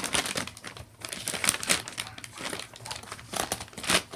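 A wipe crinkling and rustling as it is rubbed over a Baby Alive doll's mouth to clean it, in quick irregular bursts.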